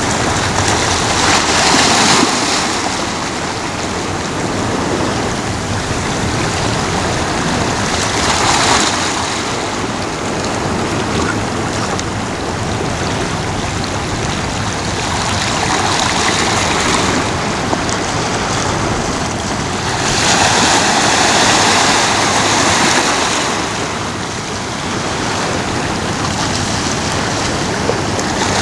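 Ocean waves breaking on a shore: a continuous rush of surf that swells into a louder crash every several seconds, with a longer, louder surge about two-thirds of the way through.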